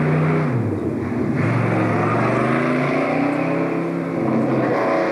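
Ford Falcon sedan's engine running close by as the car moves off. Its pitch drops about half a second in, then rises and holds steady, easing off again near the end.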